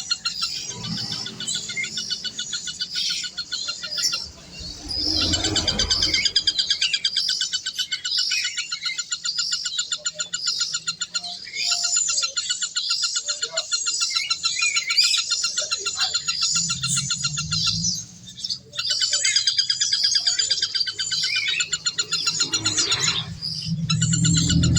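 Many birds chirping together in a dense chorus of fast, repeated trills, with two short lulls. A low hum rises near the end.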